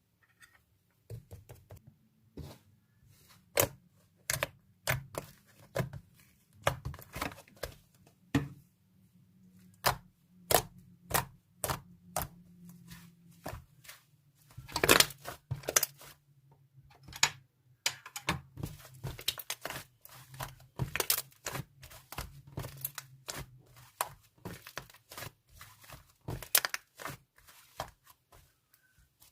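Slime being squished and poked by hand, making irregular sharp clicks and crackling pops, some in quick runs, with the loudest about halfway through.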